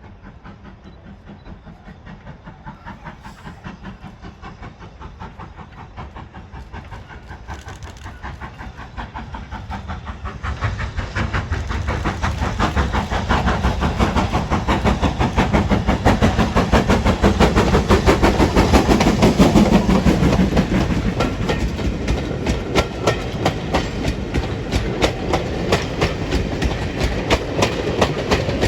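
BR Standard Class 5MT two-cylinder 4-6-0 steam locomotive hauling its train past. Its rhythmic beats grow steadily louder over the first half as it approaches, mixed with the clickety-clack of wheels over rail joints as the train goes by.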